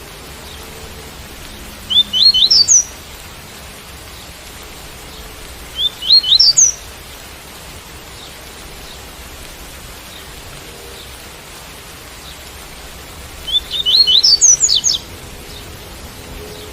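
Double-collared seedeater (coleiro) singing the tui-tui song type three times: short phrases of quick, high rising notes, the last phrase longer. Steady rain sound runs underneath.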